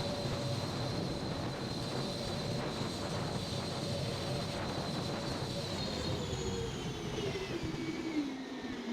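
A steady machine whine over a rushing noise, whose pitch falls steadily over the last few seconds as it winds down.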